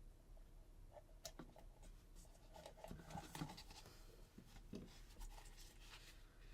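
Near silence, broken by faint scattered clicks and short scrapes of small parts being handled at a workbench, busiest in the middle.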